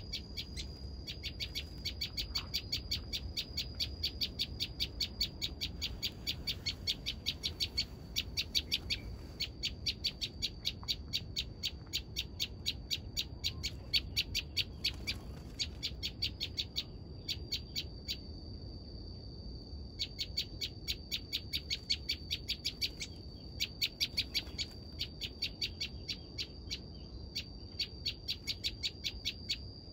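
Ciblek (prinia) calling: fast runs of dry, ticking chip notes, about seven a second, in long bouts broken by short pauses. A steady high thin tone runs underneath.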